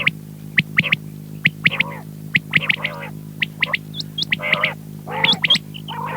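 Quail calling in quick succession: sharp short chirps, short rising whistles and lower buzzy calls, with several birds overlapping. A steady electrical hum runs underneath.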